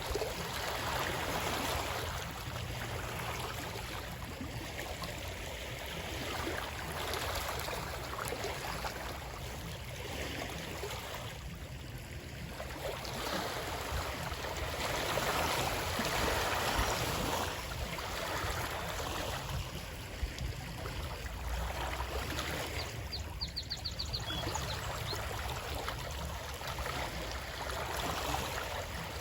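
Running water, a continuous rushing that swells and eases every few seconds. A brief run of high chirps comes through near the end.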